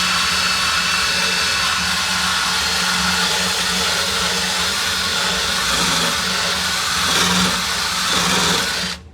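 MIG welder laying a continuous bead on a steel car-body repair panel: a steady, loud crackling hiss with an electrical hum under it, which cuts off sharply near the end.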